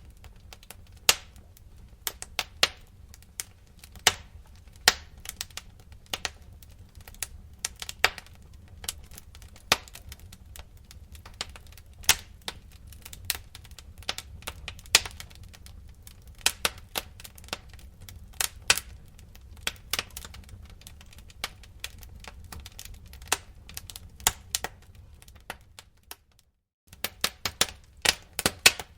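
Wood fire in a fireplace crackling, with irregular sharp pops and snaps over a low steady rumble of the flames. The sound cuts out for a moment near the end.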